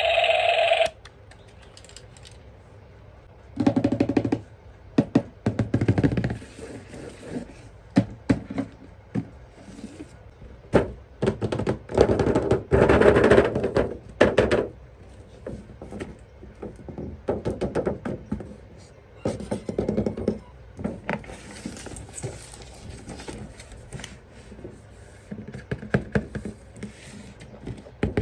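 Plastic toys being handled: irregular clicks, knocks and rattles, busiest around four seconds in and again from about eleven to fifteen seconds. A tonal electronic sound, such as a toy's tune, cuts off about a second in.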